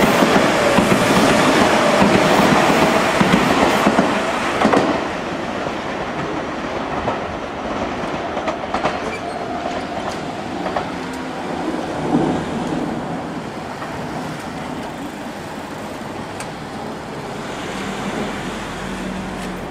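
Seibu 6000-series electric commuter train running past close by, loud, then after about four and a half seconds heard from farther off as it pulls away over the points, with a few sharp wheel knocks and a slowly fading rumble.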